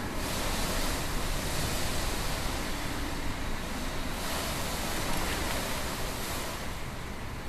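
Typhoon wind blowing hard in surging gusts, with wind buffeting the microphone in a low rumble.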